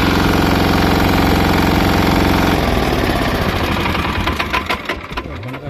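Tipper truck's diesel engine running loud and steady, then breaking up about two and a half seconds in into an uneven rattle of knocks that fades toward the end.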